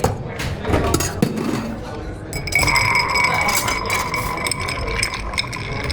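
Glassware clinking behind a bar. From about two and a half seconds in, a steady high ringing tone joins the clinks.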